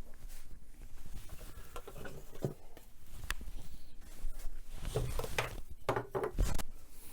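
Things being handled on a shelf while it is wiped: light knocks and clicks as objects are picked up and set down, with rubbing of a cloth. The knocks come thickest about five to six and a half seconds in.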